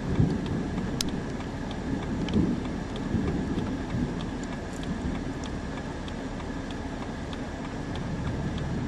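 Storm wind and rain noise on the camcorder microphone: a steady low rumbling hiss with faint scattered ticks.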